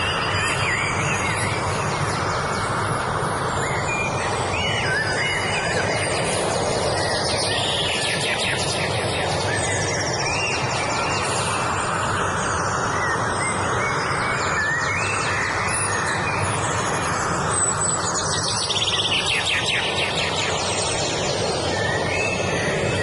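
Wild birds singing: short whistled, up-and-down calls throughout, with fast high trills about a third of the way in and again near the end. Under them runs a steady, even rushing noise.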